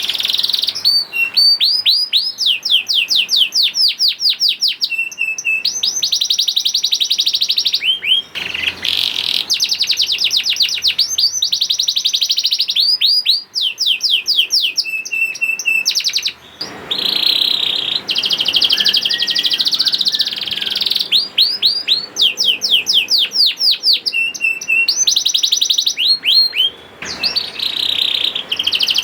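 Domestic canary singing a long, vigorous song of fast trills: rapid runs of repeated high notes in phrases of a few seconds, with a few brief breaks between phrases.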